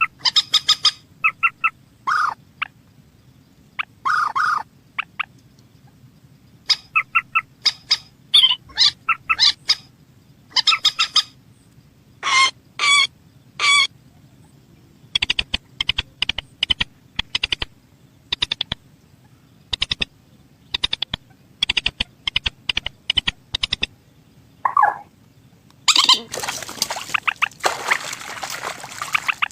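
Rail calls, such as those of the white-breasted waterhen and crakes, given as many short, pulsed bursts in quick series, in places a rapid ticking run. A few seconds of rustling noise near the end.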